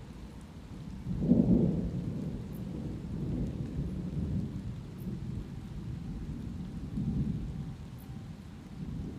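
Thunder rumbling low, starting about a second in and rolling on in a few weaker swells, over the steady hiss of light rain.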